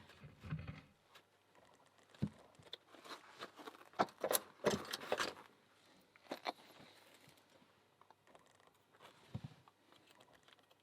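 Small metallic clicks and light clatter of padlock parts being handled while an American 1100 is reassembled, pins going back in. The clicks come sparsely, with a busier cluster about four to five seconds in.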